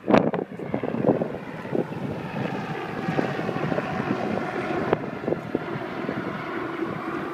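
A steady engine drone, like a passing motor, over wind buffeting the microphone, with a few gusty thumps near the start.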